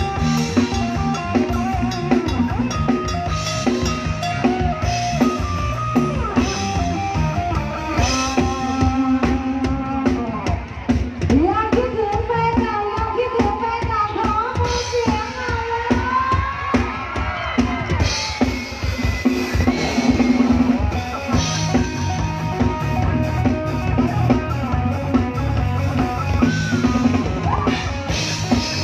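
Live band music: a drum kit keeps a steady beat under a melody line that slides and bends in pitch through the middle.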